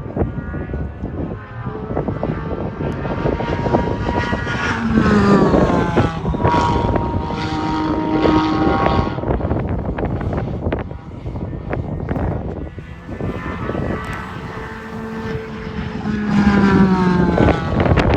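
Race cars passing at speed on a track, engine pitch dropping sharply as a car goes by, twice: about five seconds in and again near the end. Wind buffets the microphone throughout.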